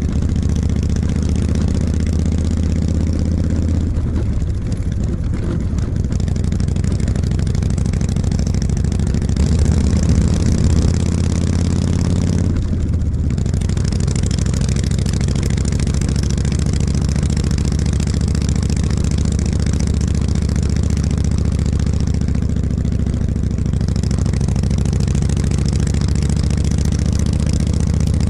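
Harley-Davidson motorcycle engine running, its note shifting a few times in the first half and then holding steady.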